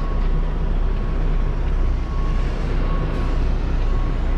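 Semi-truck's diesel engine running steadily at low speed with a deep hum while the tractor-trailer is manoeuvred into a parking spot.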